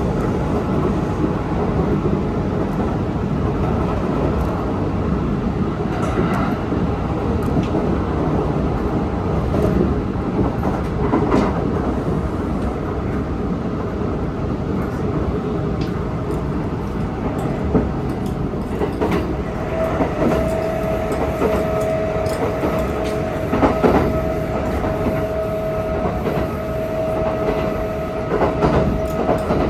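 Kintetsu electric train with a Hitachi GTO VVVF inverter running at speed, its wheels rumbling and clacking over rail joints. About twenty seconds in, a steady whining tone comes in and holds over the rumble.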